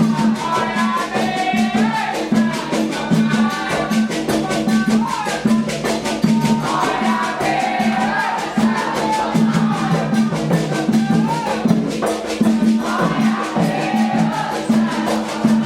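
Candomblé xirê music: atabaque hand drums beating a fast, steady rhythm with rapid rattling percussion, under voices singing.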